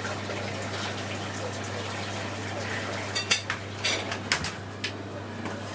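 Hoover Electron 1100 washing machine running with water rushing in over a steady low hum. A few sharp clinks and knocks come about three to five seconds in.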